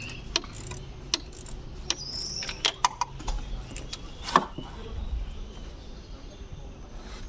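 Sharp metallic clicks and taps of a hand wrench working the bolts of a Ford Mondeo Mk3's starter motor, at uneven intervals, with a louder knock about four seconds in. A short high chirp sounds about two seconds in.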